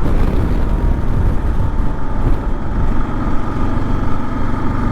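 Kawasaki KLR650's single-cylinder engine running steadily at road speed, mixed with heavy low wind rush.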